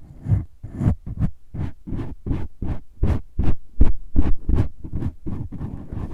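Scratching strokes on a microphone windscreen, right against the microphone, in a regular run of about three strokes a second. Each stroke is a short rub with a deep rumble.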